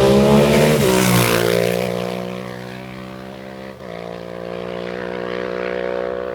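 A racing motorcycle's engine passes close at high revs, its note dropping in pitch and fading as it goes by. A steady engine note then comes in about four seconds in and grows louder toward the end.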